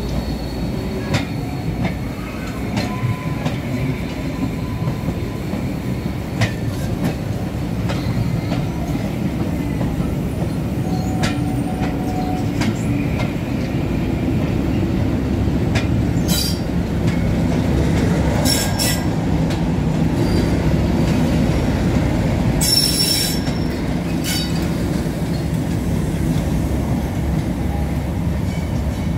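Diesel-hauled passenger coaches rolling slowly past on jointed track, wheels clicking over the rail joints with a low rumble. The wheels give brief high squeals a few times about halfway through. A diesel locomotive's engine rumble grows stronger in the second half.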